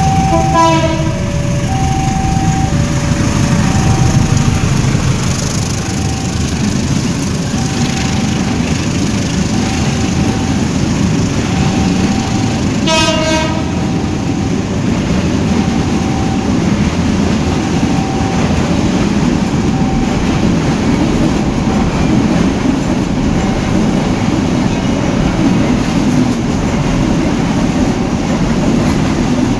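Freight train of fuel tank wagons rumbling past, its wheels clicking over the rail joints. The locomotive horn sounds a short blast about half a second in and again about 13 seconds in. A level-crossing alarm beeps steadily about once a second throughout.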